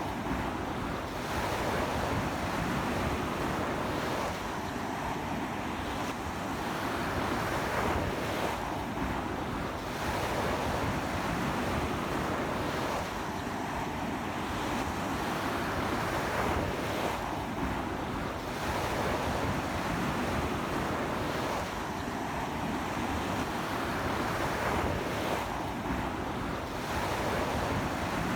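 Ocean waves breaking and washing on a beach in a strong sea wind, the surf noise swelling and easing every few seconds, with wind buffeting the microphone.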